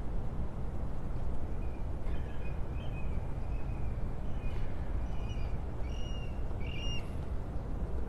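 A bird giving a series of short, high calls, stronger towards the end, over a steady low background rumble.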